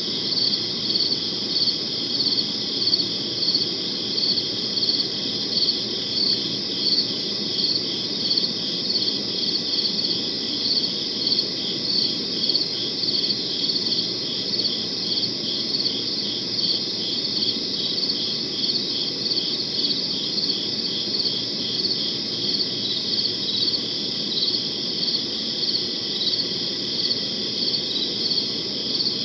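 Crickets chirping in a steady night chorus. One cricket's chirps repeat evenly about one and a half times a second over the continuous trill, with a soft low background hiss underneath.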